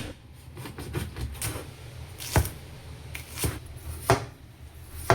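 A kitchen knife chopping on a cutting board: about five sharp knocks spaced roughly a second apart.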